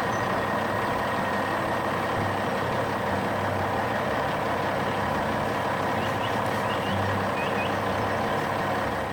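Heavy truck engine running steadily, a constant noisy rumble with a faint steady whine.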